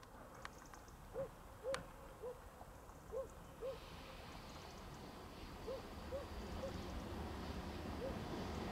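A bird calling faintly in short, low hooting notes, often in pairs about half a second apart, repeated every second or two. A low rumbling noise grows louder near the end.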